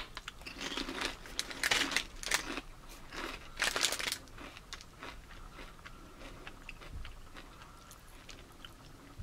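A person biting into and chewing a crisp triangular spicy tortilla chip: a run of crunches over the first four seconds or so, then fainter chewing.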